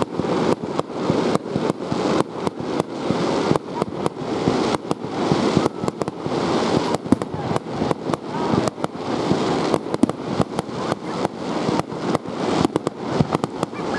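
Fireworks display: a dense, continuous run of sharp bangs and pops, several a second, with no let-up.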